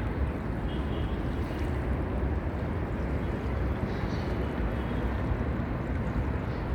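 Steady rushing of wind and sea, an even, dense noise heaviest at the low end, with wind buffeting the microphone.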